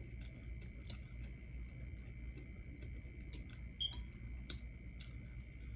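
Eating sounds: irregular soft mouth clicks and smacks from chewing, over a low steady hum and a faint steady high tone.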